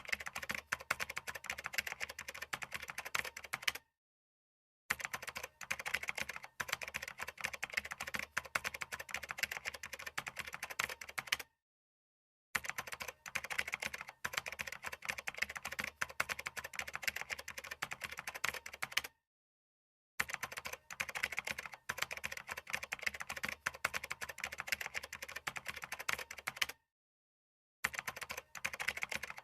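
Fast, continuous typing on a computer keyboard: a dense stream of key clicks that breaks off into total silence for about a second four times, at even intervals roughly seven to eight seconds apart.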